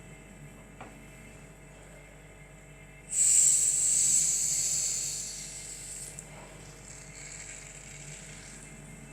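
A freezer-chilled Coke being opened: a sudden loud hiss of escaping gas about three seconds in, fading over the next few seconds.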